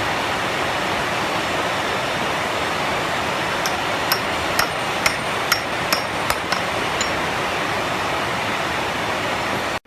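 Loud, steady rushing noise with a run of sharp knocks, about two a second, from about four to seven seconds in. The noise cuts off abruptly near the end.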